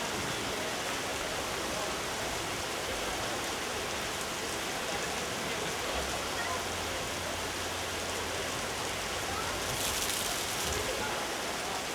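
Steady heavy rain falling on the arena roof, heavy enough that water has got into the rink, with a low murmur of voices under it.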